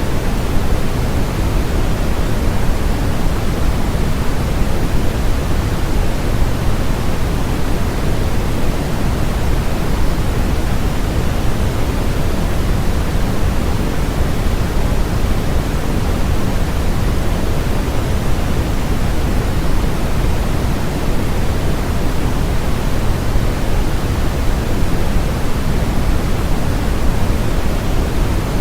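Continuous white noise played as a sleep and focus sound: a loud, even, unchanging hiss, with more weight in the low end than the high.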